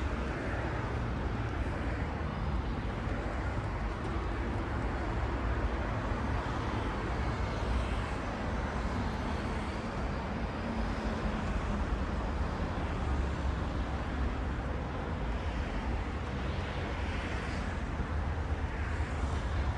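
Steady outdoor city ambience with a low rumble of distant road traffic and no distinct events.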